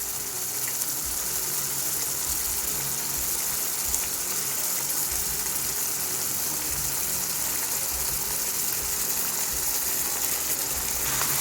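Chicken pieces sizzling in a pot of hot tomato curry sauce, a steady even hiss.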